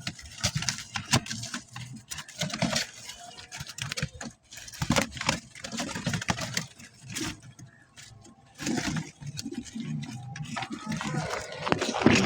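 Domestic pigeons cooing in low repeated calls, mixed with irregular scuffling, tapping and wing-rustling sounds.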